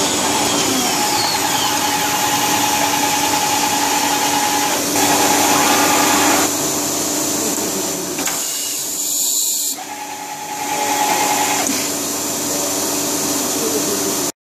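A motor-driven machine running steadily with a whine, its tone shifting a few times and dipping briefly about two-thirds of the way through before picking up again.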